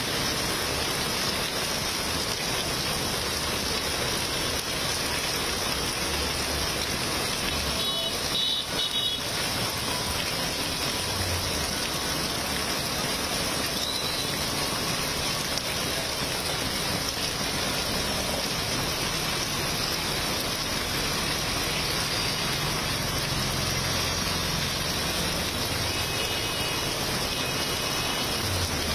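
Heavy rain pouring steadily onto a flooded road, with vehicles passing through the water. A few short high chirps sound about a third of the way in and again near the end.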